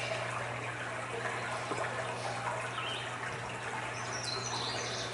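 Recorded nature soundscape: a steady rush of running water, with a few short high bird chirps about four seconds in.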